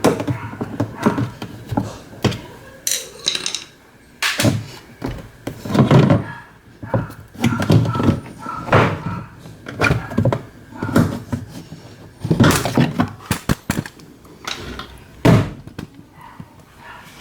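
Irregular knocks and clunks of hand work on a washing machine being taken apart, as parts and tools are handled and set down, more than a dozen separate strikes.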